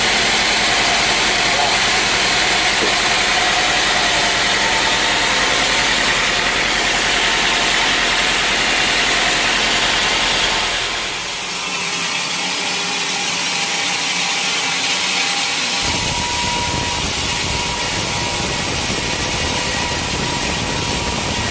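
Sawmill machinery running: a steady engine hum under dense sawing noise. About eleven seconds in the sound changes abruptly and the low hum drops away; some five seconds later a steady rushing noise returns with a thin high whine.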